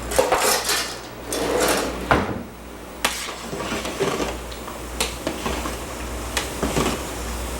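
Kitchen utensils and cookware clattering as someone hunts for a spoon to stir a pot of pasta, with several sharp knocks scattered through.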